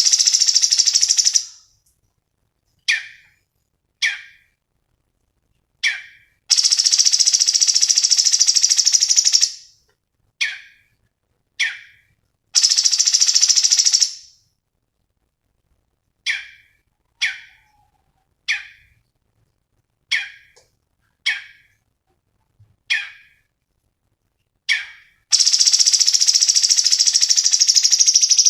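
Cucak cungkok song: long, rapid, high trills of about three seconds each, four times, alternating with single short, sharp notes that drop in pitch, repeated about once a second.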